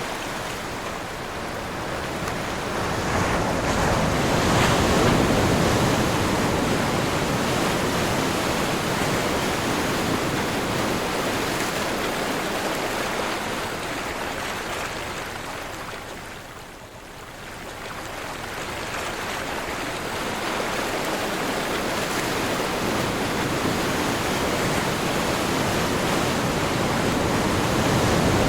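Ocean surf with wind: a continuous rush of breaking waves that swells a few seconds in, ebbs to a brief lull about two-thirds of the way through, then builds again.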